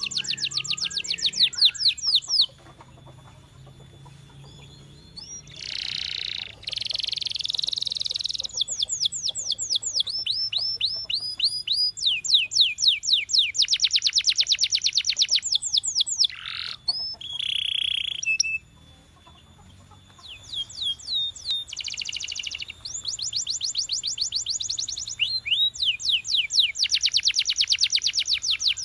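Canary singing long, fast trills of rapidly repeated high, downward-sweeping notes, with brief rolls and two short pauses in the song.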